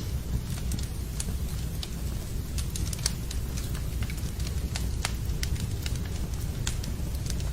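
Wood fire burning in a fireplace: a steady low rumble with irregular sharp crackles and pops of the burning logs.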